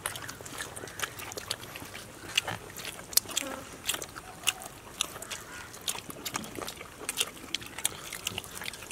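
Close-up eating sounds: people chewing fried chicken legs with open-mouthed wet smacks and clicks, coming irregularly several times a second.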